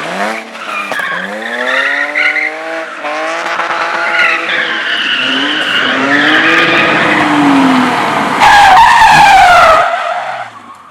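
A competition car driven hard, its engine revving up and down several times while its tyres squeal as it slides; the loudest squeal comes near the end, then the sound dies away.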